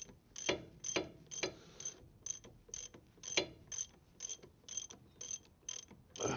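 Ratchet spanner clicking in repeated short strokes, about two a second, with a few heavier knocks of tool on metal.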